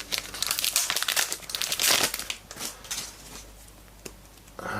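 Trading-card pack wrapper crinkling as it is torn open and handled, the crackle dying away about three seconds in.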